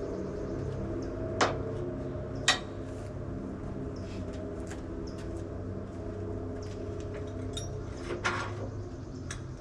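A small engine running steadily, with a few sharp knocks over it: two loud ones early, then a cluster near the end.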